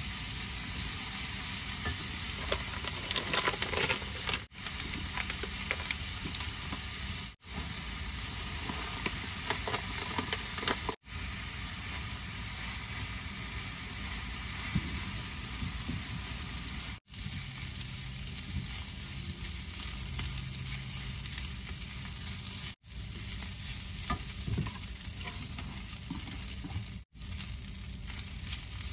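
Ground meat, then brown rice and shredded cheese, sizzling in a frying pan on a gas burner while a silicone spatula stirs and scrapes. The sizzle is steady but broken by several brief drops to silence, and the scraping is loudest about three seconds in.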